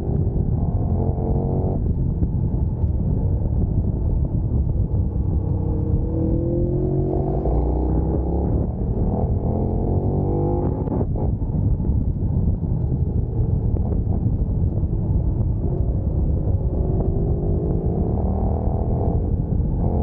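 Sport motorcycle engine under hard acceleration. The revs climb, drop back at each upshift and climb again, over a steady low rumble.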